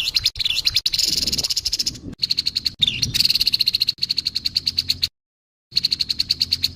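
Grey-headed babbler giving its harsh call: a fast, rattling train of high, even notes, in stretches broken by short gaps, with a brief pause about five seconds in before it starts again.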